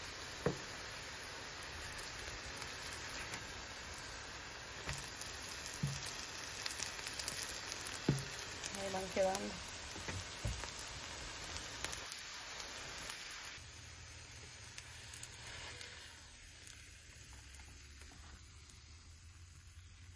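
Egg-battered potato fritters frying in hot oil in a pan, a steady sizzle with a few light knocks scattered through it. The sizzle drops noticeably quieter in the last third.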